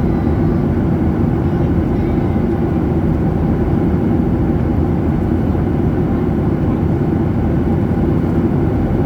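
Steady low rumble of airliner cabin noise, engines and airflow, heard from inside the passenger cabin in flight.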